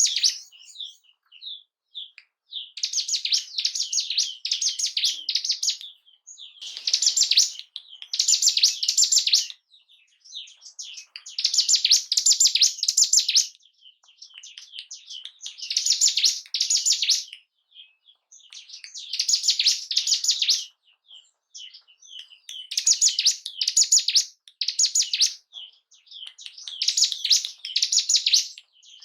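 Ciblek gunung, a mountain prinia, singing: phrases of fast, high, buzzy repeated notes, each a second or two long, given every three or four seconds. A trigger song used to rouse caged birds of the same kind.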